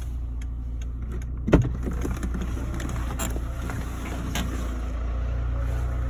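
2004 Seat Ibiza 1.4's engine idling steadily, with a sharp click about one and a half seconds in and a few fainter clicks after it.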